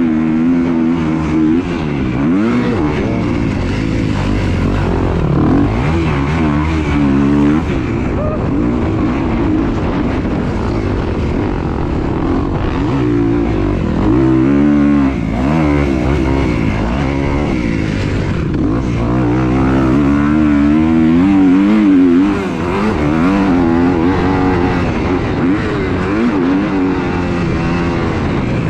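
Motor vehicle engines revving up and down over and over, the pitch rising and falling every couple of seconds, with more than one engine heard at once at times.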